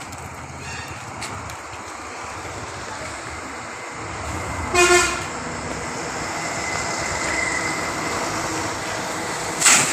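A horn toots once, briefly, about five seconds in, over steady background noise that slowly grows louder. A short loud burst of noise comes near the end.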